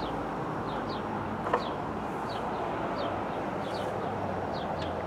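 Outdoor ambience: a steady background rush with a small bird chirping over and over in short falling chirps, roughly two a second. A single brief knock about one and a half seconds in.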